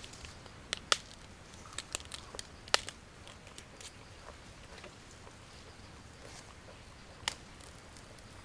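Sharp, crisp cracks and crunches of raw elephant grass (Napier grass) being bitten and chewed: a cluster of clicks in the first three seconds, then one more loud crack near the end.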